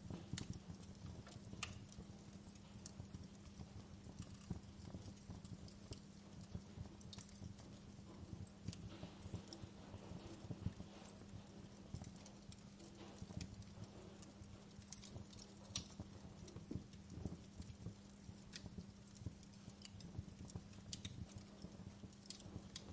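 Wood fire crackling softly, with irregular pops and snaps, several of them a little louder, over a low steady hum.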